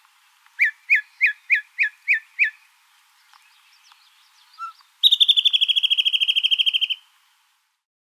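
Yellow-breasted chat singing: seven quick down-slurred whistled notes, then after a pause a fast, even rattle of higher notes lasting about two seconds.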